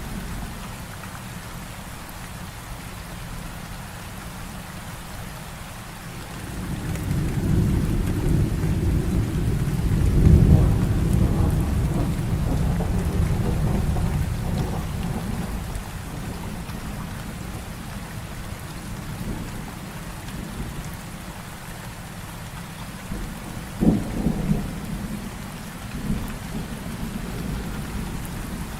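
Heavy rain falling steadily in a thunderstorm. About six seconds in, a long roll of thunder builds, peaks and fades over roughly ten seconds, and near the end two shorter, sharper claps of thunder sound a couple of seconds apart.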